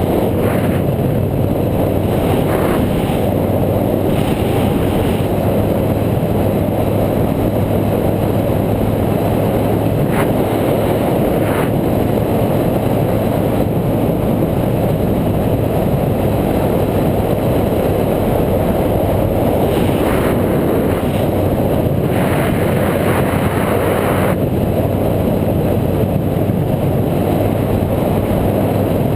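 Steady, loud rushing of wind and road rumble on an action camera's microphone while riding a bike, with no letup.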